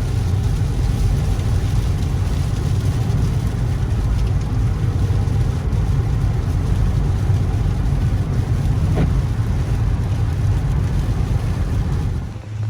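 Car driving: a steady, loud low rumble of engine and road noise, easing off near the end.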